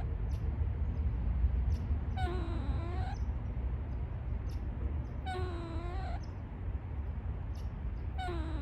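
Gray squirrel giving a drawn-out, whining call with a wavering pitch, repeated about every three seconds: twice, with a third call starting near the end. A steady low rumble runs underneath.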